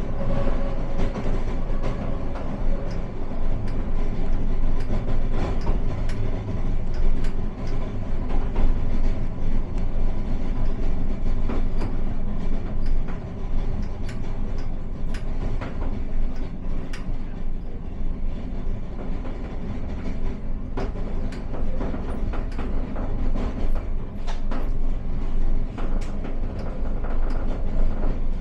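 Aigle–Leysin metre-gauge rack railway train running: a steady low rumble with frequent short clicks and knocks from the wheels and track.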